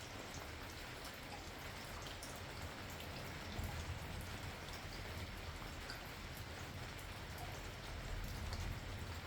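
Steady rain falling, with individual drops ticking on a nearby surface. A low rumble swells twice, near the middle and near the end.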